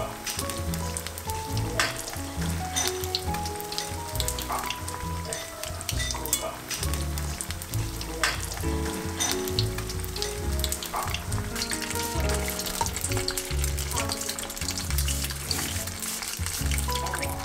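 Food frying in hot oil in a pan, a steady sizzle with frequent sharp crackles and clicks, over background music with a bass line.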